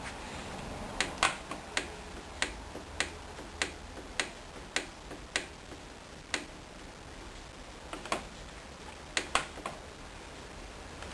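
Controls of a Hoover Dynamic Wash washing machine clicking: a steady run of single sharp clicks, about one every 0.6 seconds, then a pause and a few more irregular clicks near the end, as the controls are stepped through the settings.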